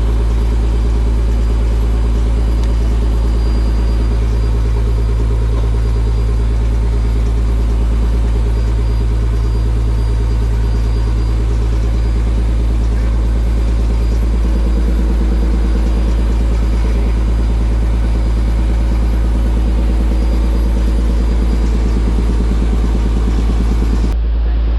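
Fishing boat's engine running steadily with a deep, constant hum, then cutting off abruptly near the end.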